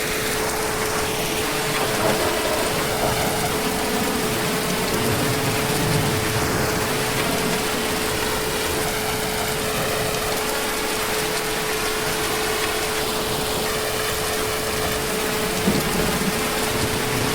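Heavy rain falling steadily, an even hiss with no breaks, with a faint steady hum-like tone running under it.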